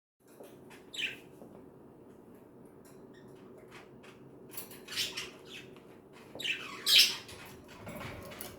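Pet budgerigars chattering with rapid chirps, broken by sharp squawks about a second in, around five seconds and, loudest, near seven seconds.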